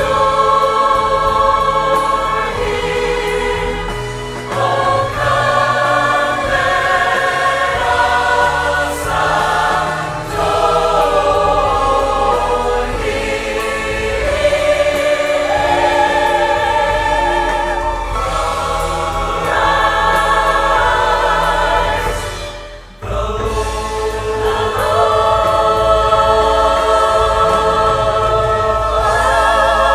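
Choir singing with musical accompaniment, long held notes with vibrato over a steady bass line; the music drops away briefly about three quarters of the way through, then the choir comes back in.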